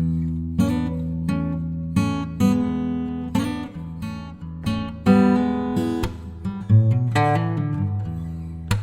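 Background music: acoustic guitar playing, with sharp plucked and strummed chords that ring out.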